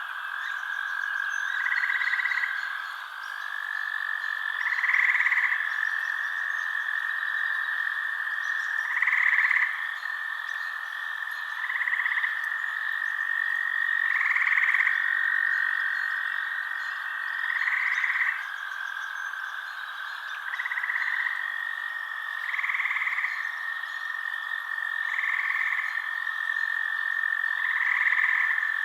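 Night chorus of frogs: short croaking calls repeating every two to three seconds over a continuous, steady high trill.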